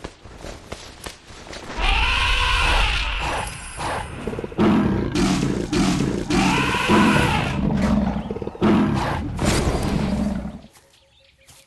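Tiger roaring and growling in a long loud stretch that starts about two seconds in and cuts off about a second before the end, with two rising-and-falling calls among the roars.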